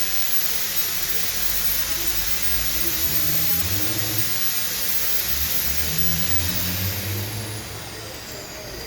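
Steady hiss of heavy rain with a low, uneven rumble underneath. A thin high tone slides down in pitch near the end.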